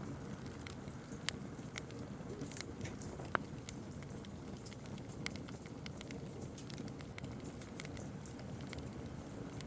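Campfire crackling: a steady low rumble of burning wood with scattered sharp pops and snaps, the loudest a little over three seconds in.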